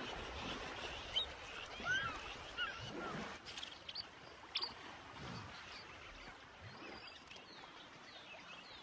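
Birds chirping, a quick run of short calls in the first three seconds, with a few soft clicks and knocks over a faint outdoor background.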